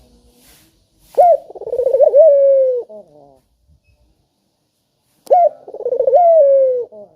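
Puter (Barbary dove) cooing twice, about four seconds apart: each call opens with a sharp rising note, runs into a quick rolling coo and ends in a long, slowly falling note.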